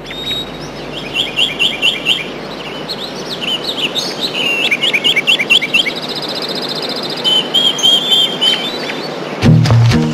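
Birds singing: several runs of quick, repeated chirps and a high trill over a steady hiss of outdoor ambience. Music comes in with a low bass note near the end.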